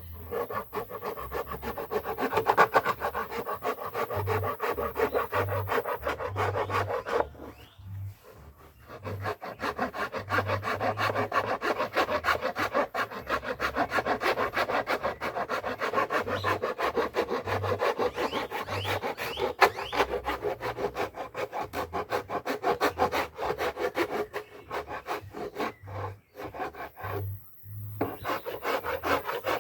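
Wood being worked by hand with quick, repeated back-and-forth rubbing strokes, in the manner of sanding or rasping. The strokes pause for about a second and a half some eight seconds in, and briefly again near the end.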